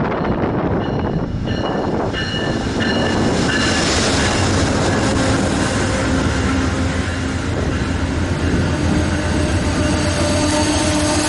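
Amtrak passenger train running along the track, a loud steady rumble with brief high wheel squeals in the first few seconds and a steady hum later. Strong wind buffets the microphone.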